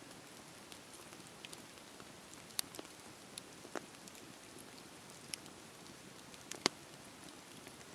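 Wood campfire crackling: a soft steady hiss with irregular sharp pops and snaps, the loudest pop near the end.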